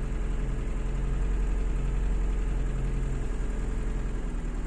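IZh 2126 Oda's engine idling steadily on choke after a cold start from a long standstill. The exhaust downpipe is leaking ('штаны секут'), so exhaust blows into the engine bay, and the car also has an ignition fault.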